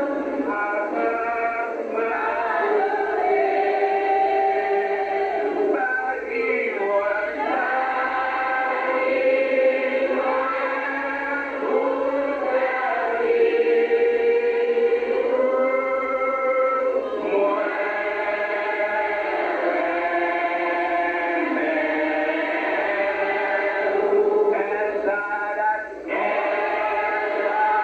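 A group of voices singing a hymn together, in long held notes that rise and fall, with a short break about 26 seconds in.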